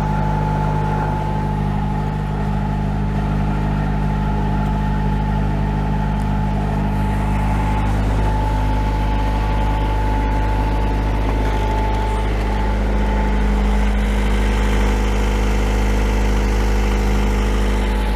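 Perkins 4-108 four-cylinder marine diesel engine running steadily out of gear, an even drone with a thin steady whine above it, growing slightly louder about two-thirds of the way through.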